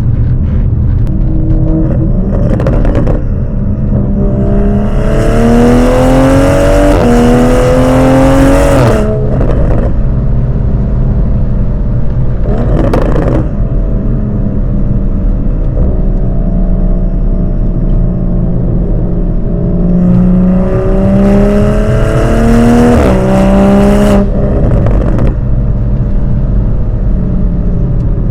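Toyota GR Supra with a Dinan exhaust and CTS catted downpipe accelerating hard twice. The exhaust note rises in pitch through quick upshifts and cuts off sharply when the throttle closes. Between the pulls it settles to a steady cruising drone.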